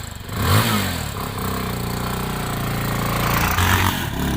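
Motorcycle engine running, revved up and back down about half a second in and again near the end.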